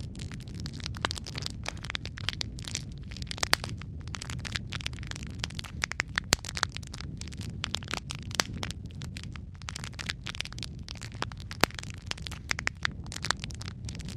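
Wood logs burning in a fireplace: dense, irregular crackling and popping over a steady low rumble of the flames, with a few sharper pops standing out.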